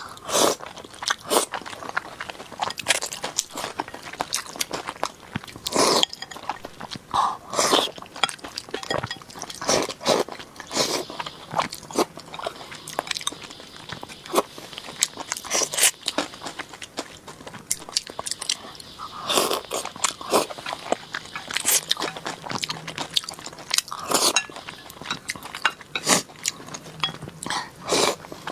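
A person eating close to the microphone: chewing and biting, with many irregular sharp crunches and mouth clicks.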